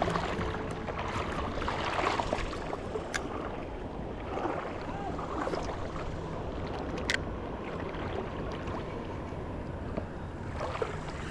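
Shallow river water sloshing and splashing in irregular swells around the legs of someone wading, with two sharp clicks.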